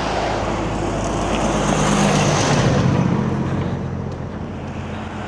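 A road vehicle passing close by: engine and tyre noise swells to a peak about halfway through, the engine note drops in pitch as it goes past, and then it fades.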